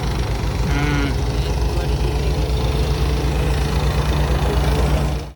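Tractor engine running steadily under load while driving a threshing machine for chickpeas, a constant mechanical hum. A brief voice is heard about a second in.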